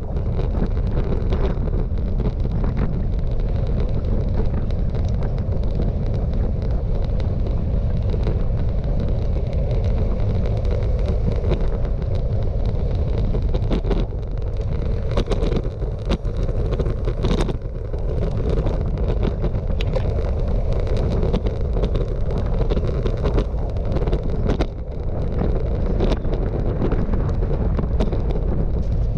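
Strong wind buffeting the microphone of a camera on a moving bicycle, a loud steady rumble with occasional short knocks.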